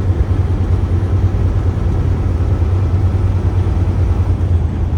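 Tractor-trailer cruising at highway speed, around 100 km/h: a steady low drone of engine and road noise with no change in pitch.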